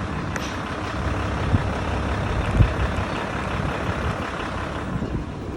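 Steady low rumble of a vehicle running, with a couple of faint knocks.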